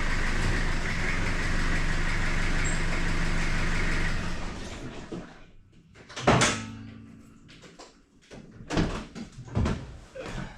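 A steady mechanical running noise lasts about four seconds and then dies away. A sharp clunk follows about six seconds in, then a few lighter knocks.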